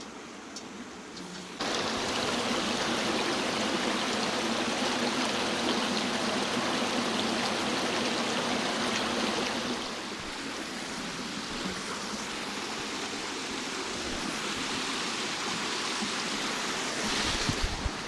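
Creek water flowing steadily, a full rushing sound that comes in suddenly about one and a half seconds in and eases slightly partway through. A few faint clicks come before it.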